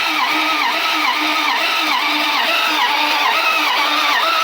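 1957 Dodge truck engine cranking on the starter motor without firing, an even rhythmic churn of about two and a half compression strokes a second. It has no fuel, so it only turns over, a little slowly from a weak battery.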